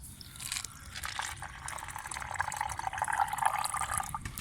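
Water being poured into a small container, filling it with a steady splashing trickle.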